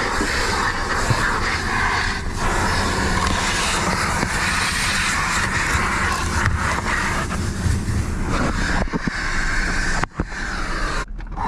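Steady car noise, a dense even rush, broken by two short dropouts about ten and eleven seconds in.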